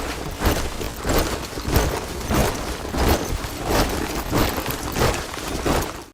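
A body of soldiers marching in step, their boots striking the ground together in a steady rhythm of about one step every 0.6 seconds.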